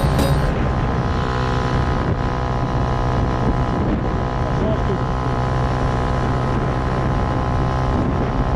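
Engine running at a steady speed.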